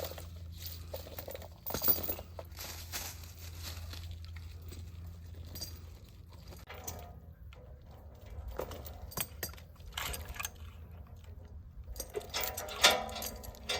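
A metal chain clinking and rattling in irregular bursts as it is handled and hooked up, over a low steady hum that fades about halfway through.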